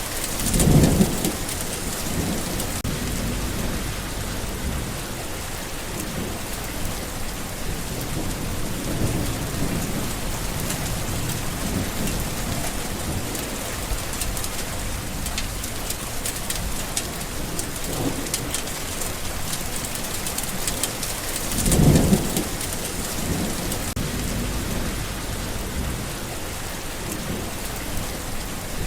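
Steady heavy rain, with thunder rumbling twice: once about a second in and again near the end.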